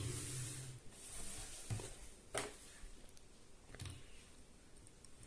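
Faint handling noises: about four soft clicks and taps spread over a few seconds, over a quiet background.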